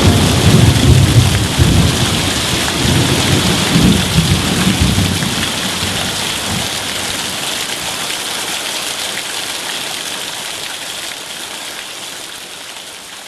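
Thunderstorm: a low thunder rumble over heavy rain, the rumble dying away about five seconds in. The rain hiss goes on and fades out steadily near the end.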